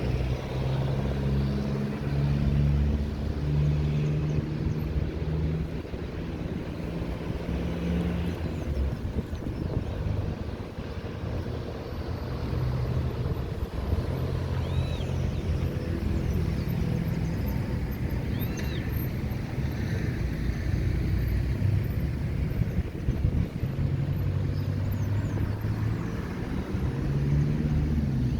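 Road traffic on a city avenue: car engines running and vehicles passing, a steady low hum that rises and falls in pitch as they go by.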